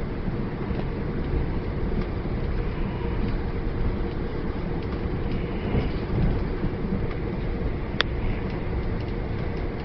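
Steady low rumble of a train carriage in motion, with a single sharp click about eight seconds in.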